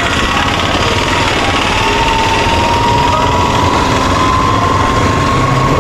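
Street traffic: a motor vehicle engine running over a steady rumble, its whine rising slowly in pitch over a few seconds.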